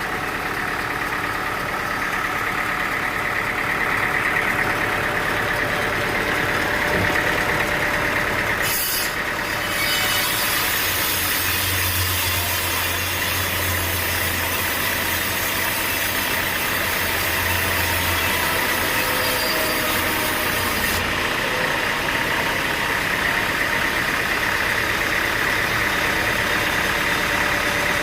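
Sawmill engine running steadily. From about nine seconds in, a high hiss and a low rumble join it for about twelve seconds, then cut off suddenly.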